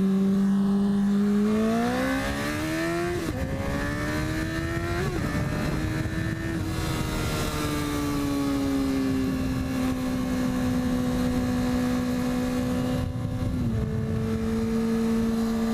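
Motorcycle engine accelerating, its pitch rising through a couple of gear changes, then settling into a steady cruise.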